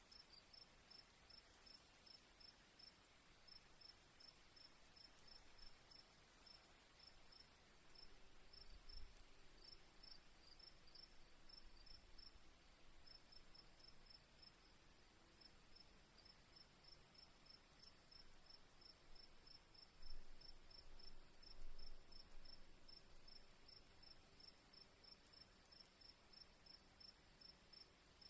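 Crickets chirping faintly: a steady high-pitched trill with a row of short chirps over it, about two or three a second. A few soft low thumps come around a third of the way in and again about three-quarters through.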